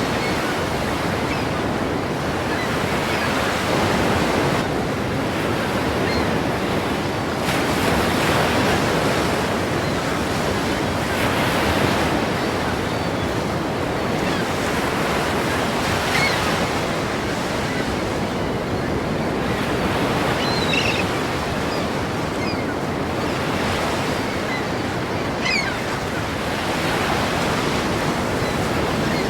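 Ocean surf: a continuous rush of waves breaking and washing in, swelling and easing every few seconds.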